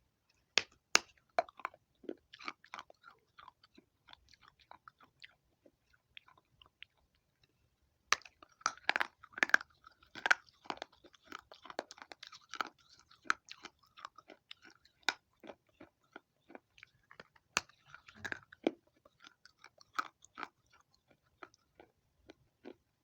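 Close-up crunching and chewing of baked clay pot pieces with grey clay paste: sharp, brittle cracks in clusters, a quieter stretch of a few seconds, then a dense run of crunches.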